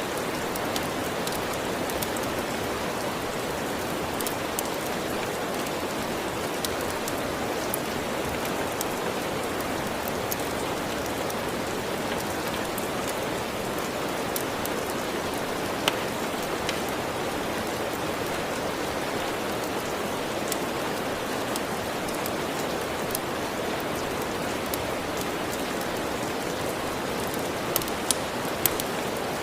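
Steady heavy rain, an even hiss, with scattered sharp pops and crackles from a wood fire; a few pops stand out louder, one about halfway through and several near the end.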